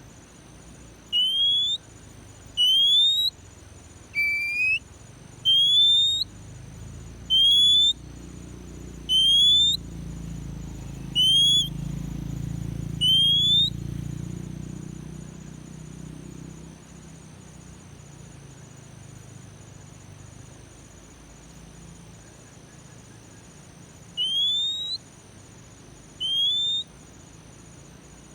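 Oriental magpie-robin (kacer) giving single clear rising whistles, each about half a second long, repeated every one and a half to two seconds. After eight calls there is a pause of about ten seconds, and two more calls come near the end. A low rumble swells and fades in the middle, under faint steady high tones.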